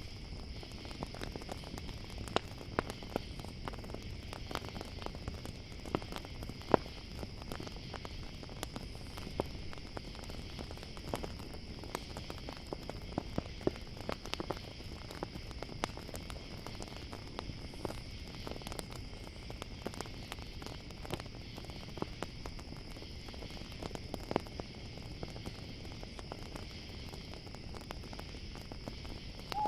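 Campfire crackling, with irregular sharp pops over a low steady rush, while crickets chirr steadily in the background.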